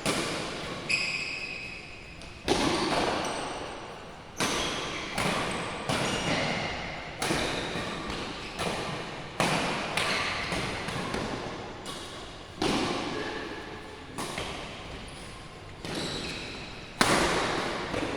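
Badminton rackets smacking a shuttlecock in a rally, sharp hits about once or twice a second, each ringing on in the echo of a large sports hall. A brief high squeak about a second in.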